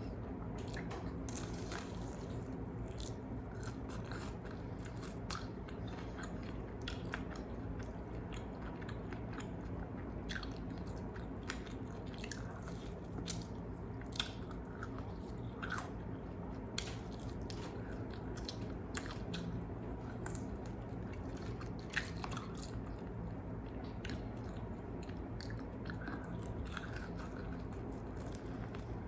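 Close-miked biting and chewing of crispy fried chicken wings, with sharp crunches of the fried skin scattered throughout over a steady low hum.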